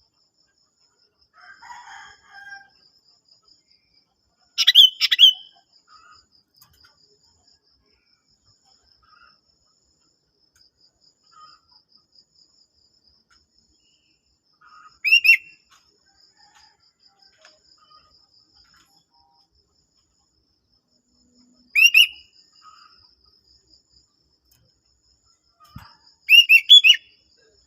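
Sooty-headed bulbul (kutilang) giving four short, loud song phrases several seconds apart, each a quick run of sweeping notes. A faint, steady high insect trill runs underneath.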